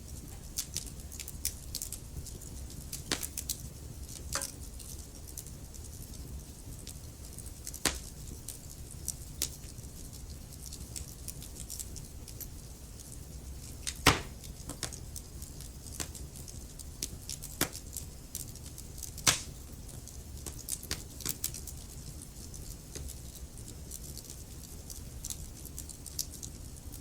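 Wood fire of burning logs crackling: a steady low rumble of flame with irregular sharp pops and snaps, two louder pops about halfway through and a little later.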